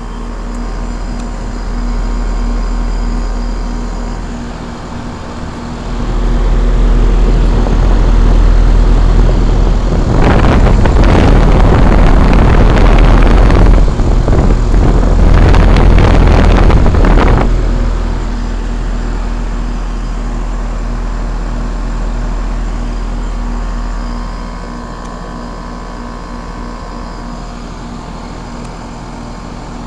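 Outdoor unit of a 5-ton 2001 Trane XE1000 Weathertron heat pump running in heat mode: the compressor's steady low hum with the condenser fan running. A loud rushing noise swells up about a third of the way in and dies back a little past halfway.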